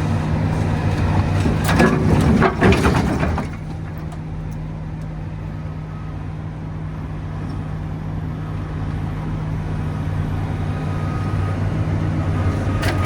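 Excavator's diesel engine running steadily, with a loud burst of clanking and scraping about two seconds in, after which the engine continues more quietly and slowly builds again; a single sharp knock near the end.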